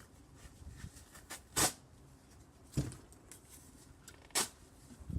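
Cardboard box being struck with a vacuum cleaner pole: three sharp hits about a second and a half apart, with lighter knocks and rustling between them.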